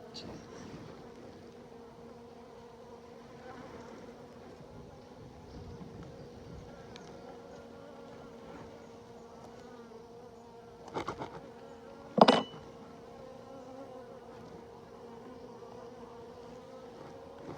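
Honeybees buzzing as a steady hum around an open hive. About eleven seconds in there is a quick run of knocks, then a single loud knock just after, the loudest sound.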